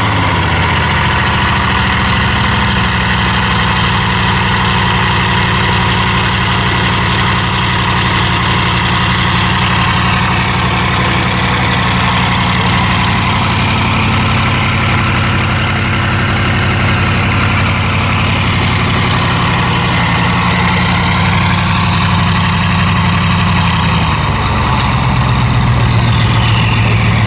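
Bugatti Veyron 16.4's W16 engine, fitted with a Mansory exhaust, idling just after a cold start. It holds a steady high fast idle, then settles to a lower idle about 24 seconds in, while a high whine falls in pitch near the end.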